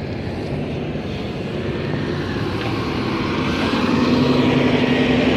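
Road traffic with a heavy vehicle's engine droning and growing louder toward the end as it comes closer.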